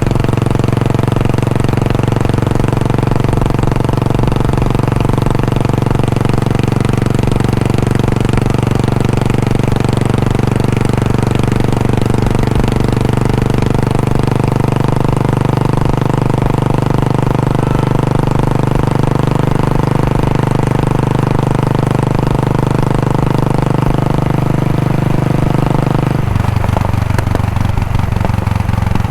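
Royal Enfield Bullet 500's single-cylinder engine and exhaust running at a steady, low speed, with an even thumping beat. Near the end the sound thins out and turns choppier.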